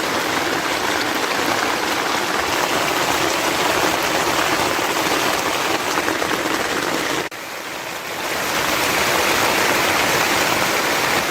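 Rushing water, heavy rain or a fast stream, as a dense, steady hiss. It dips suddenly about seven seconds in, then builds back up.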